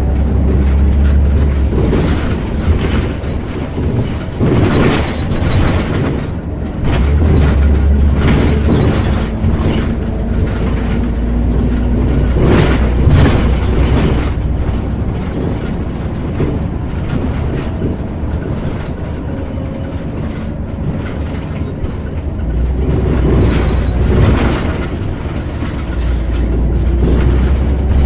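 Interior of a Scania CN94UB OmniCity bus on the move: the engine's deep drone swells and eases several times, under road noise and the rattle of interior fittings, with a few sharp knocks near the middle.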